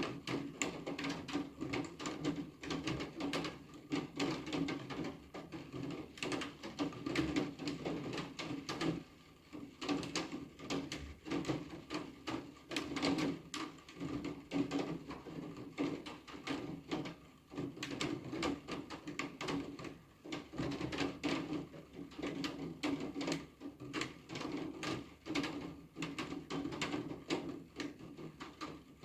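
Rain falling, heard as a dense, irregular patter of close drops tapping.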